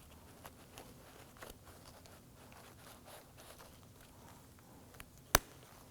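A pocket screwdriver scraping and ticking faintly against the back of a car door handle's lock unit, with one sharp click about five seconds in.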